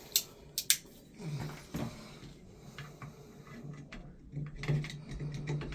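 Hand tools working at a shower valve's trim: three sharp metallic clicks in the first second, then quieter tapping and scraping.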